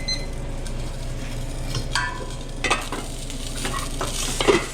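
Food sizzling in a hot pan on a restaurant line, with sharp clatters of utensils and cookware a few times, over a steady low hum. The last of a timer's beeping ends right at the start.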